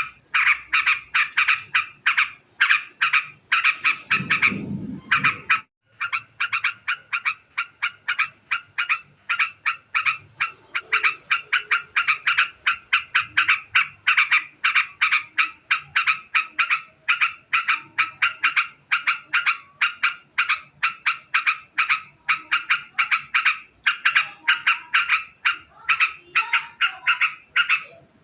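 Yellow-vented bulbul (trucukan) giving its long, very fast 'ngekek' chatter: a steady run of short, sharp calls, several a second, broken only by a brief pause about six seconds in. A short low rumble sits under the calls just before that pause.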